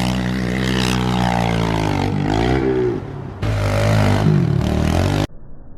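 Small dirt bike engine revving up and down as the rider works the throttle over rough ground. The engine note dips briefly about three seconds in, then picks up again and stops abruptly near the end.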